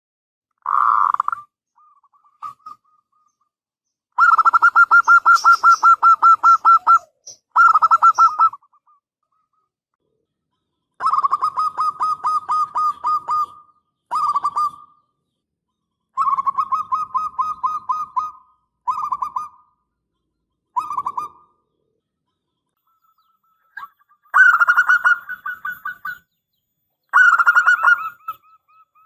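Zebra dove (perkutut) cooing: a series of rolling phrases of rapid pulsed coos, each from under a second to about three seconds long, separated by short silences.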